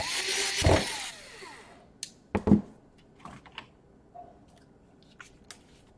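Laptop parts and tools being handled during reassembly: a scraping, whirring noise for under two seconds, then two knocks and a few light clicks.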